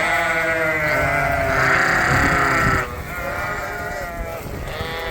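Flock of sheep bleating, several calls overlapping one another; the loudest comes from about one and a half to three seconds in.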